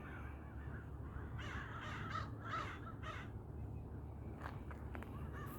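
A bird calling about four times in quick succession, with a steady low hum beneath.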